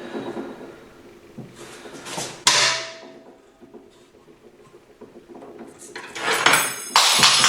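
Metal transmission parts being handled and fitted into a Ford 5R55S automatic transmission case: low clattering, and a sharp metal knock about two and a half seconds in that rings briefly. A loud rush of noise starts about six seconds in and is still going at the end.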